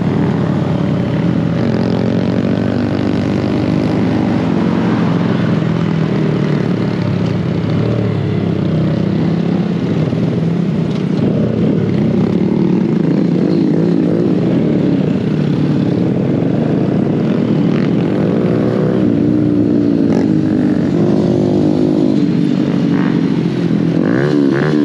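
Small mini bike engines running steadily while riding, the engine pitch wavering and rising and falling with the throttle.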